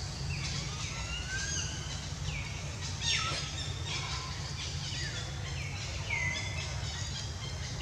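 Birds calling: a run of short chirps that slide down in pitch, coming every second or so, with one louder call about three seconds in, over a steady low hum of outdoor background noise.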